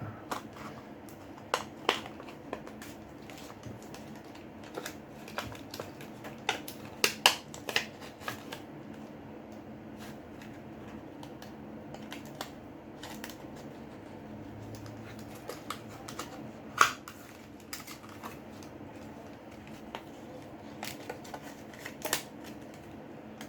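Scattered small clicks and scrapes of a pry pick being worked under the glued display of a Samsung Galaxy J6 smartphone, with a few sharper clicks about seven and seventeen seconds in.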